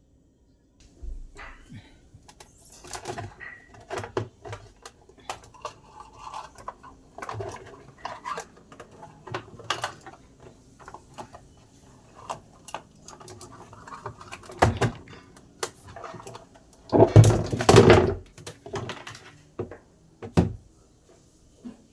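Irregular clicks, knocks and short rattles of hard plastic and metal parts being handled while a twin-tub washing machine is taken apart for cleaning, with a louder clatter lasting about a second near the end.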